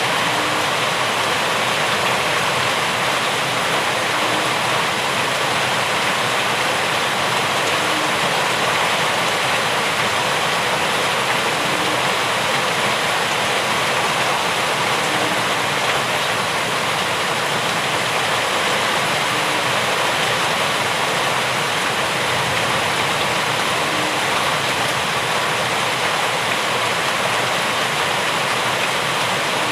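Steady heavy rain: an even, continuous rushing hiss with no breaks.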